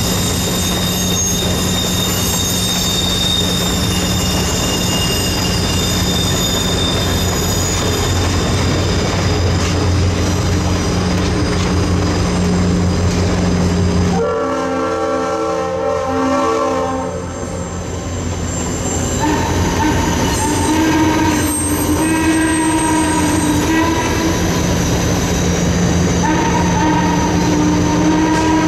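Passenger cars rolling past on jointed track, a steady rumble of wheels on rail. About halfway through the rumble drops for a few seconds under a cluster of pitched tones, and through the second half the wheels squeal on and off.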